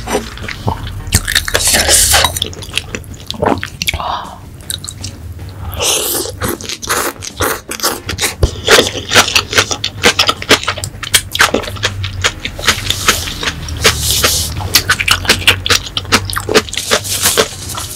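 Close-miked eating sounds: a person chewing, with rapid wet clicks and smacks of the mouth that grow denser from about six seconds in.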